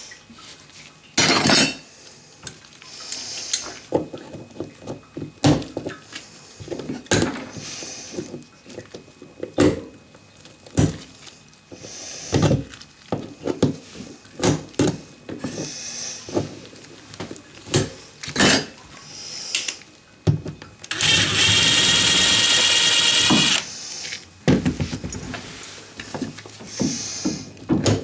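Repeated knocks and clatter of hand tools and parts being handled. A power drill runs steadily for about two and a half seconds about three-quarters of the way through.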